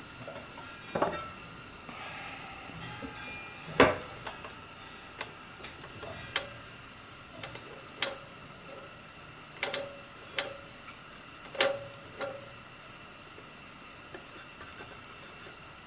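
Scattered sharp metallic clicks and knocks of hand work on a forge blower's fan and housing, about eight in all, irregularly spaced, the loudest about four seconds in, over a steady hiss.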